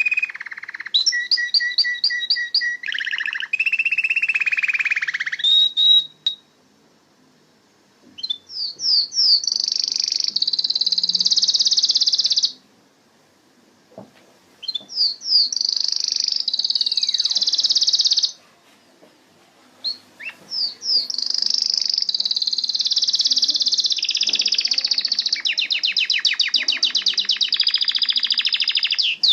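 Domestic canary singing: long phrases of fast, high trills and rolling notes, broken by three pauses of about two seconds, ending in a very rapid buzzing trill.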